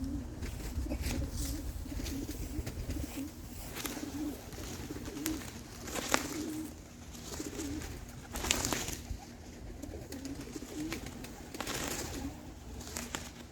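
Racing pigeons cooing repeatedly, a low warbling coo, with a few brief rushing sounds about six, eight and twelve seconds in.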